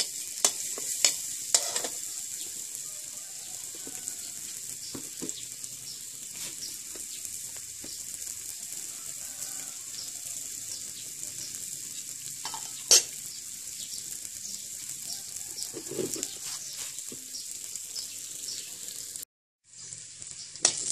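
Sliced shallots and chillies sizzling steadily in hot oil in a steel wok, with a metal spatula clicking and scraping against the pan a few times in the first two seconds and one sharp click about 13 seconds in. The sound cuts out for half a second near the end.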